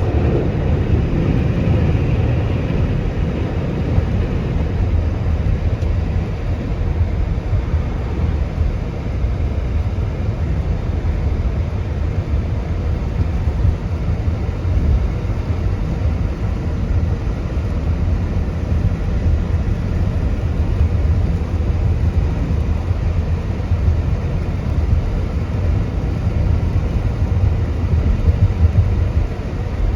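A car driving on the road, giving a steady low rumble of tyres and engine.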